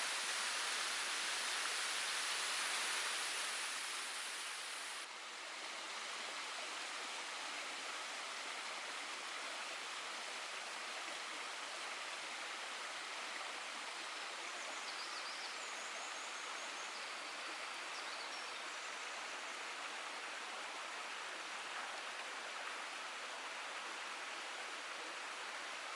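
Steady rushing and splashing of a mountain waterfall. About five seconds in, the sound changes abruptly to a slightly quieter, softer rush. A few faint high chirps come through in the middle.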